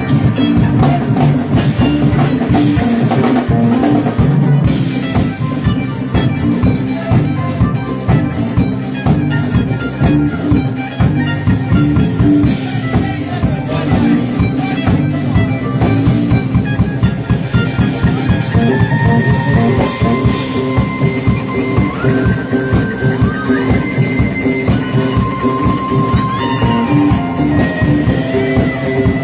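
Live band playing, with drum kit keeping a steady beat; held lead notes, stepping from one pitch to another, come in over the band in the second half.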